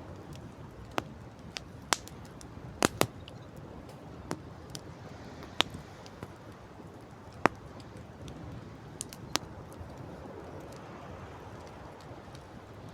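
Wood campfire crackling, with irregular sharp pops, a close double pop about three seconds in, over a steady rush of wind and sea.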